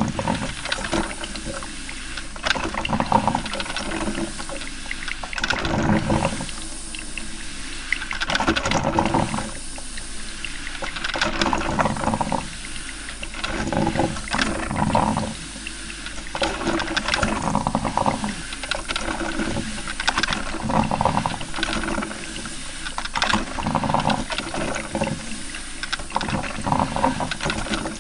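Coffee maker brewing: water gurgling and sputtering in irregular bursts that swell and fade every second or two.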